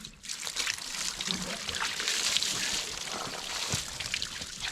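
Water poured and splashed from a bucket onto a freshly sawn oak slab: a steady, splashy rush that starts a fraction of a second in.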